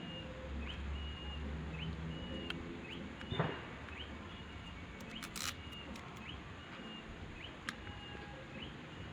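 A bird calling over and over, each call a short rising note then a held high tone, about once a second. A low hum runs under the first two seconds, and a single knock comes about a third of the way in.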